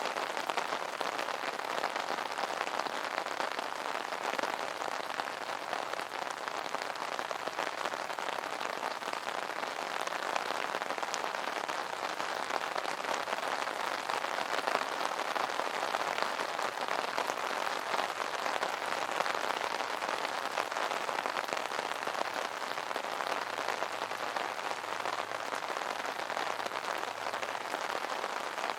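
Steady rain drumming on an umbrella canopy: a dense, even patter of many small drop impacts without let-up.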